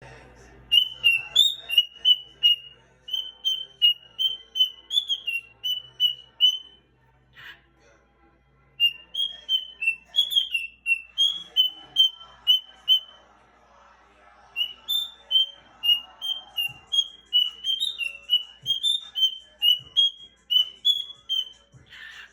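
Pet cage bird singing at its mirror: strings of short, repeated whistled notes, two or three a second, in three long phrases with brief pauses between.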